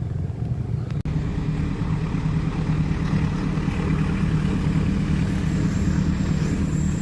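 Heavy diesel engine running steadily with a low hum, broken by a brief dropout about a second in.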